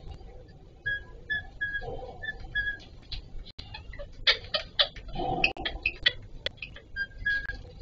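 Indian ringneck parakeets calling: a run of short, evenly pitched high chirps, then a burst of sharp clicking chatter with a lower, harsher call twice, the louder one about five seconds in.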